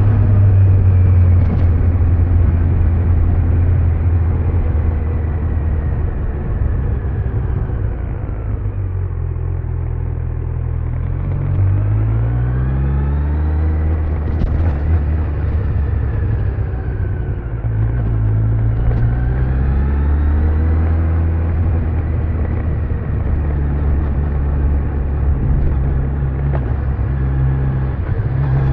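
Kawasaki Z900's inline-four engine running on its stock exhaust while riding on the road. The revs fall about a third of the way in and climb again, then dip and rise once more about two-thirds of the way through.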